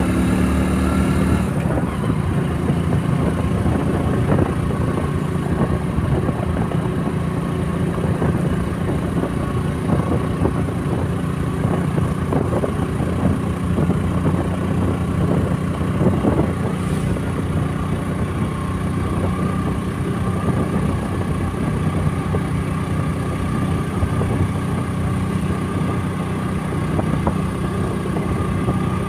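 Motorcycle engine running at a steady pitch while riding, heard from the rider's own bike.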